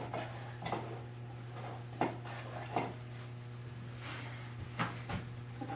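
Light clinks and taps of small tools and hardware being handled while working on a machinist's chest, about six scattered through a few seconds over a steady low hum.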